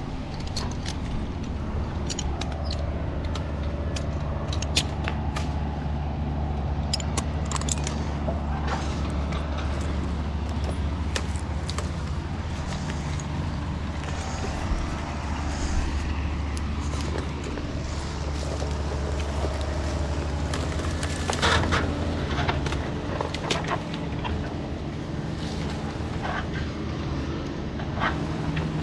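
A large engine running steadily at a constant speed, with scattered sharp clicks and knocks over it, most of them bunched about three quarters of the way through.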